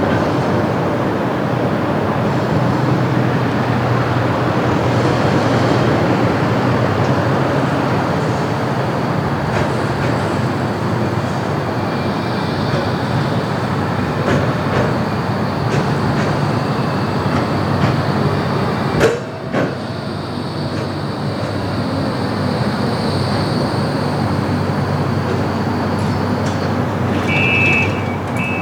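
Tram running on its rails, a steady noise of wheels and motor. There is a sharp knock about two-thirds of the way through, and a short pair of high electronic beeps near the end.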